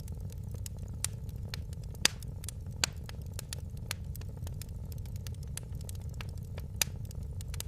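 Wood fire in a fireplace crackling, with irregular sharp pops over a steady low rumble; the loudest pop comes about two seconds in.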